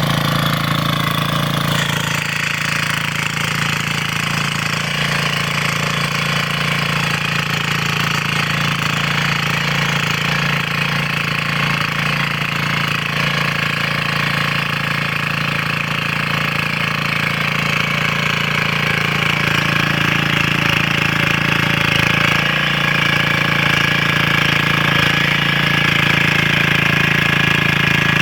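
Power weeder's small engine running steadily, growing slightly louder in the later part.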